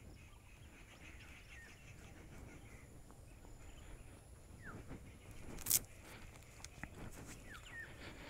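Quiet outdoor ambience with faint bird calls: a few short, falling chirps scattered through it. One sharp click a little past halfway is the loudest sound.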